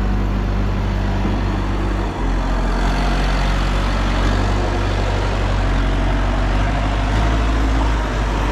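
Heavy diesel engine running steadily with a deep rumble. It dips briefly about two seconds in, and the low rumble grows stronger near the end.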